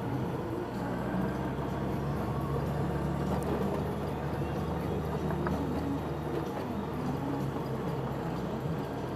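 Motorcycle engine running steadily while riding, with wind and road noise; the low engine note changes about six and a half seconds in.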